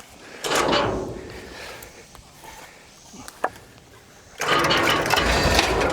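Vehicle winch hauling a heavy load, a mechanical ratcheting, gear-clattering run. A first burst comes about half a second in and fades, a single click follows near the middle, and a louder, steady run starts about four and a half seconds in.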